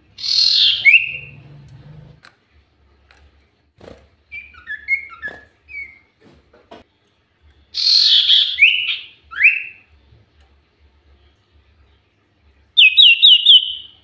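Common iora (cipoh) calling: harsh scratchy calls that end in short downward-sweeping notes at the start and again about eight seconds in, softer scattered chirps in between, and a quick run of four clear notes near the end.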